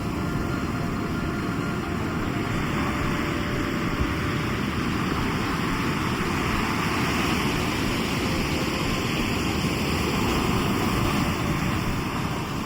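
Sea waves breaking on the shore: a steady rush of surf that swells over several seconds and eases near the end.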